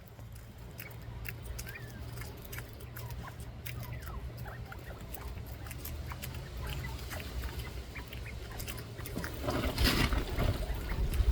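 Bobwhite quail making soft little chirps among many small ticks of pecking and scratching in the aviary floor, over a steady low rumble of wind on the microphone. About ten seconds in there is a louder rustling burst.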